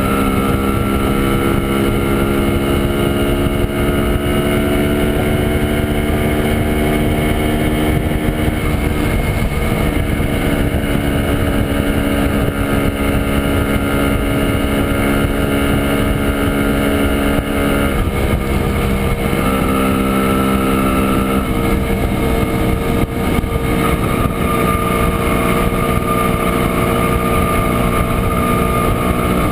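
1967 Montesa Impala Comando 175 cc two-stroke single-cylinder engine running at a steady road speed, heard from on board over wind rush; its note shifts a few times.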